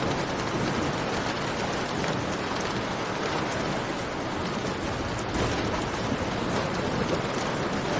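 Steady heavy rain, mixed with the scattered small pops of a crackling campfire.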